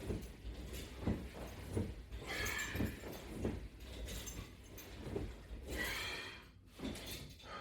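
A person doing strap-assisted sit-ups: a forceful breath about every three and a half seconds, one per repetition, with soft thumps and rustling in between.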